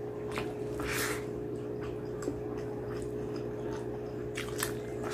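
Close-up eating sounds of a mouthful of rice and curry: wet, squishy chewing with short mouth clicks and smacks, a louder one about a second in and a few more near the end, over a steady background hum.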